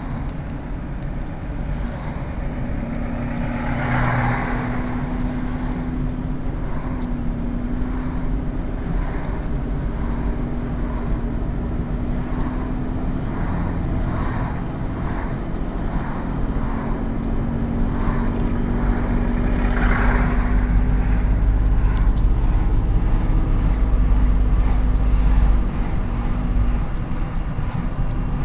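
A motor vehicle running steadily, with a held engine hum and a heavy low rumble of road and wind noise. Two brief louder swells come about 4 and 20 seconds in.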